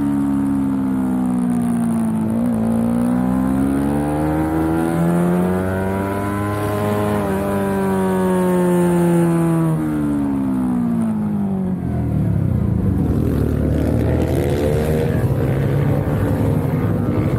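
Onboard sound of a small Suzuki sport motorcycle's engine under hard riding in second gear: the pitch drops off the throttle, climbs as it accelerates, and drops again. From about twelve seconds in a second, rougher motorcycle engine joins as another bike runs alongside, and the pitch climbs again near the end.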